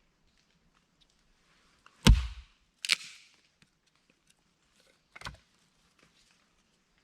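A heavy thud about two seconds in, then a short scraping rustle, and a lighter knock about five seconds in.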